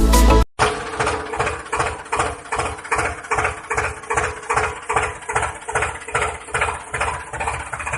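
Tractor engine idling with an even, slow chug of about two to three beats a second. A short burst of music plays before it and cuts off sharply about half a second in.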